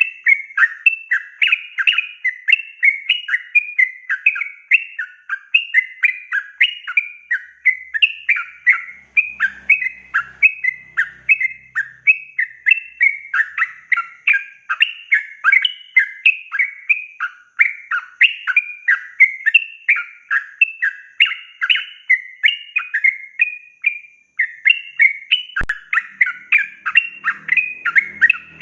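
Yellow-vented bulbul (trucuk) singing a long, nearly unbroken run of quick chattering, warbling notes, about three a second: the rapid rolling 'ropel' song.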